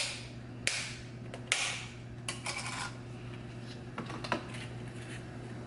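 Foil-and-paper baking cups crinkling and rustling as they are pulled apart by hand, in several short bursts with a few light clicks, over a faint steady hum.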